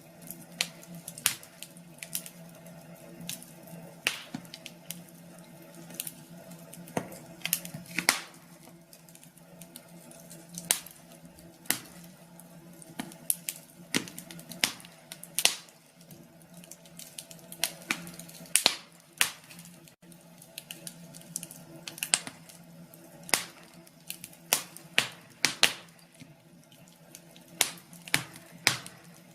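Wood fire crackling, with irregular sharp pops and snaps of burning logs over a faint steady hum.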